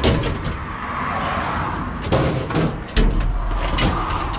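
A few knocks and bangs as bicycles and scrap are shoved around inside the van's load space, with a low rumble after the third knock.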